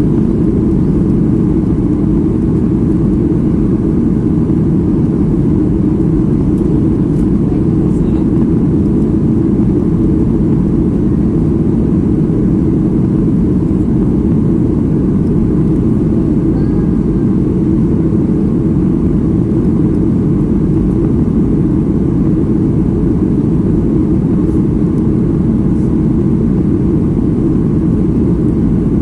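Steady cabin noise of a Boeing 737 MAX 8 in flight: engine and airflow noise, heaviest in the low range and unchanging in level.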